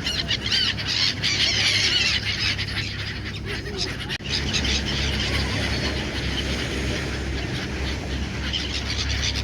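A flock of seagulls calling, many high, wavering cries overlapping, over a steady low rumble.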